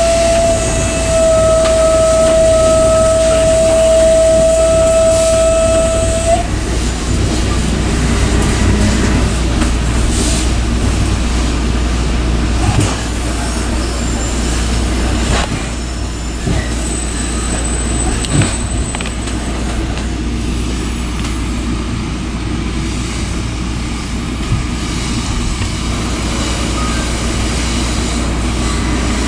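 Passenger train running, a steady low rumble of the car. A steady whine sounds over it and cuts off about six seconds in.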